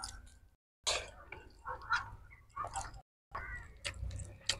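A person eating chicken biryani by hand close to the microphone: wet chewing and mouth clicks in short, irregular bursts, broken twice by a brief cut-out to total silence.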